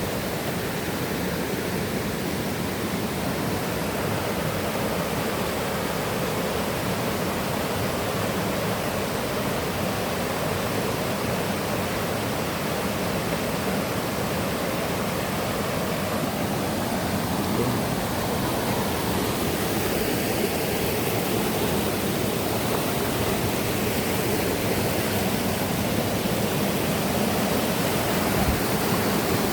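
Rushing water of a mountain river and waterfall, a steady unbroken noise.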